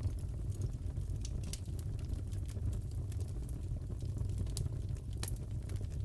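Crackling fireplace: a steady low rumble of burning with irregular sharp crackles and pops, one louder pop about five seconds in.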